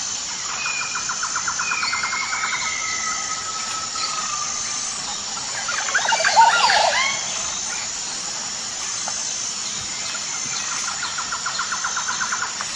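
Birds calling: a fast pulsed trill near the start and again near the end, a few drawn-out whistles, and a burst of quick chirps about six seconds in.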